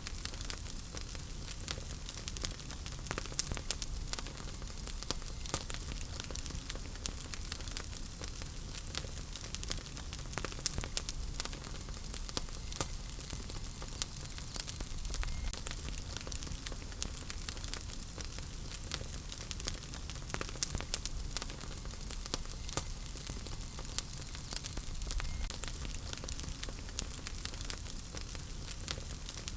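Wood fire crackling in a fireplace: frequent sharp pops and snaps over a steady low rumble and hiss of burning.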